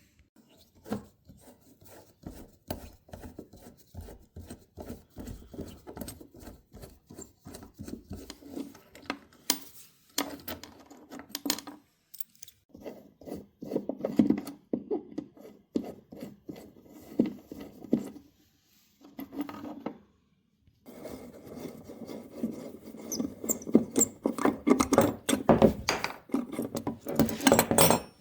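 Quick, repeated scraping strokes on wood, worked by hand in runs with a couple of short pauses.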